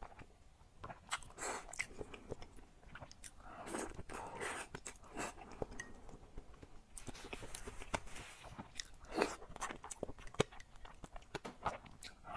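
A person chewing soft spicy braised pork brain, with many small sharp mouth clicks.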